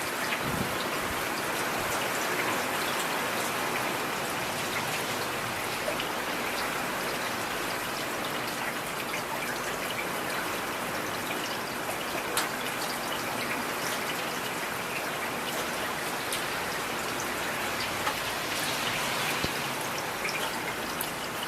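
Heavy rain falling steadily, with a few sharper individual drops standing out now and then.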